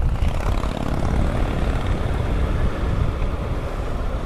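Wind rushing and buffeting over a microphone inside a motorcycle helmet with the visor up, over the running inline-four engine of a Honda CBR1000RR sportbike at road speed.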